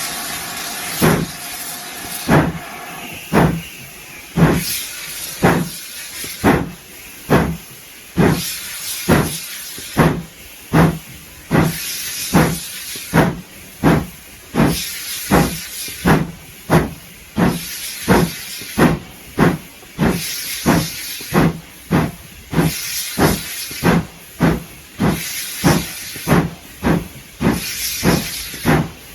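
Steam locomotive pulling away, its exhaust chuffing in regular beats that quicken from about one a second to nearly two a second as it gathers speed.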